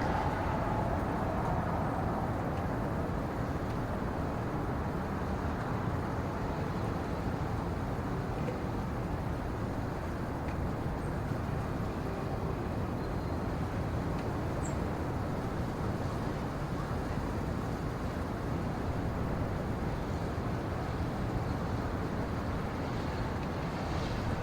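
A steady, even low rush of noise with no distinct events.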